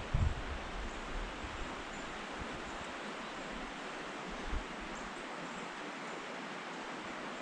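Steady rush of a small stream's flowing water, with a brief low buffet of wind on the microphone right at the start.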